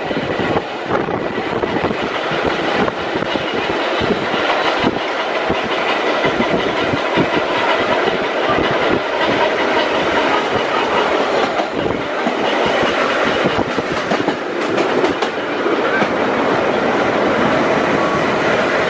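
Ride noise of the 1903 BU elevated subway car in motion, heard on board: a steady rumble, with the wheels clattering over rail joints in irregular clicks. A steady whine comes in near the end.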